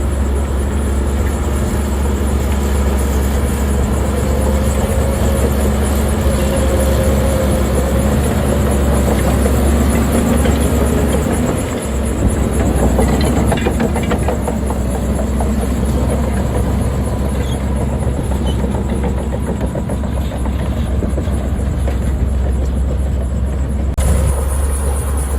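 Heavy diesel earth-moving machinery running steadily with a deep engine drone. Light metallic clatter joins it from about halfway through.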